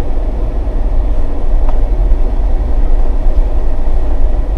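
Jeep driving slowly over a rough dirt and rock trail, a steady low rumble of engine and tyres.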